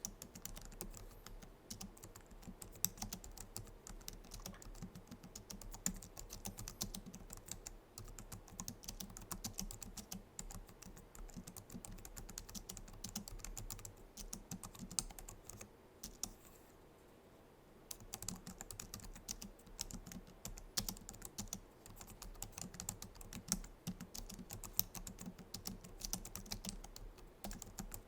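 Typing on a Logitech MX Keys keyboard: a steady run of soft key clicks that stops once for a second or two a little past the middle, then resumes.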